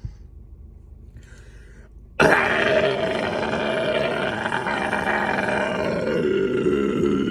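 Death-metal style harsh vocal: after a quiet start, a long guttural roar begins suddenly about two seconds in and holds, sinking lower near the end.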